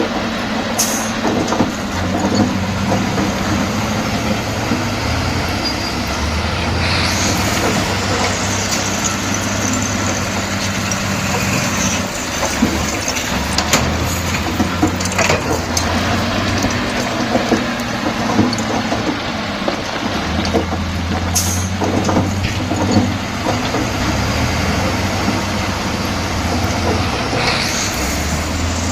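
Komatsu D68E bulldozer's diesel engine running under working load, its pitch stepping up and down as the load changes, with scattered metallic knocks. Three short bursts of hiss come through, about a quarter of the way in, past the middle, and near the end.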